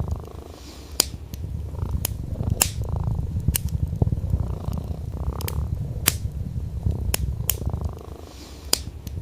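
A domestic cat purring in a steady low rumble, which dips briefly near the start and again near the end, with sharp crackles and pops of burning wood in a fireplace scattered irregularly over it.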